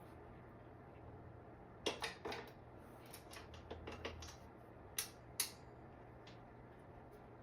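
Scattered clicks and clinks of small bike parts and tools being handled during reassembly, with a cluster about two seconds in and two sharper clicks around five seconds in. A faint steady hum runs underneath.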